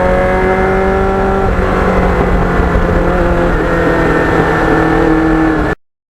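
Kawasaki Ninja motorcycle engine running steadily, its pitch stepping slightly lower about one and a half seconds in, cutting off suddenly near the end.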